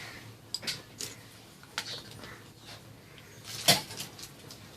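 Light clinks and taps of a kitchen utensil against a mixing bowl, a few scattered small knocks with one sharper, louder knock about three-quarters of the way through, as chili powder is added to the shrimp mixture.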